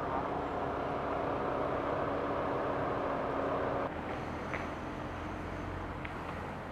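Steady hum of idling vehicle engines outdoors. About four seconds in, the sound changes abruptly to a quieter, lower rumble with a few faint ticks.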